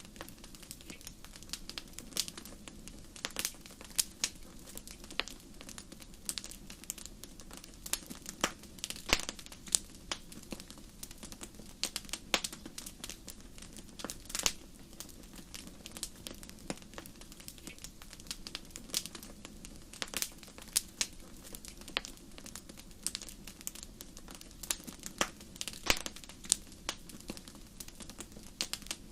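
Wood fire crackling in a fireplace: irregular sharp pops and snaps, several a second, over a steady low rush of flames.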